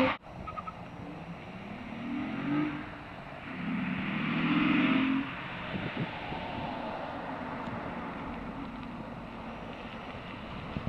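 A 2004 Acura TL's V6 with an Injen cold air intake, heard at a distance, accelerating twice: a brief pull about two seconds in, then a louder, longer one from about four to five seconds in that ends abruptly. After that there is a steady haze of road and wind noise.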